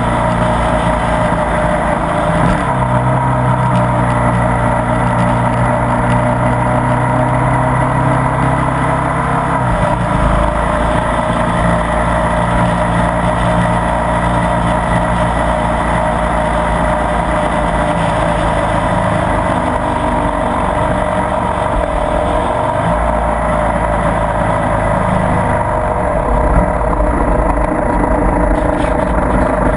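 Ducati Multistrada 1200 S's 1198 cc L-twin engine running as the motorcycle rides along a road, with a steady rush of wind and road noise. The engine note shifts in pitch a few times as the speed changes.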